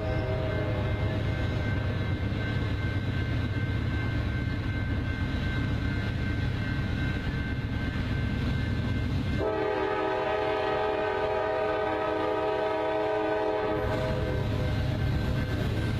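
Diesel freight locomotives running steadily with a low engine rumble. A multi-chime horn sounds a chord that cuts off right at the start, then blows again for about four seconds starting around nine and a half seconds in.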